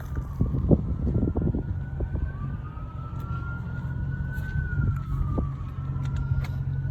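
An emergency-vehicle siren wailing, its pitch slowly rising and falling, with the wails overlapping, over a steady low hum and a few scattered knocks.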